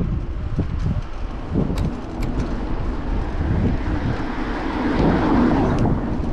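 Wind buffeting the microphone of a moving bike ride, over steady city traffic noise that swells about two-thirds of the way through, with a few faint ticks near the start.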